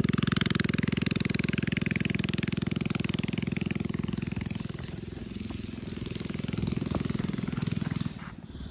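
Mini bike engine running with a fast, even firing rhythm. It is loud at first and fades over the first few seconds, then swells and falls again, dipping near the end.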